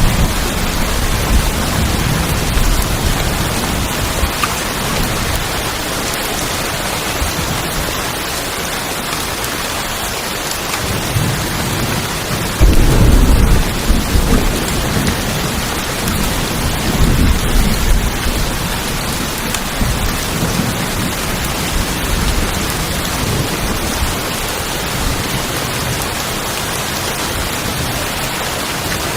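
Steady rain on a tin roof, with rolling thunder; the loudest peal comes about halfway through, and a smaller one follows a few seconds later.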